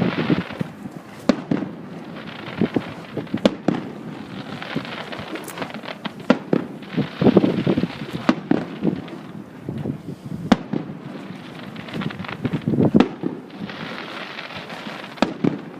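Aerial fireworks bursting: a string of sharp bangs throughout, with several dense runs of crackling and stretches of hissing.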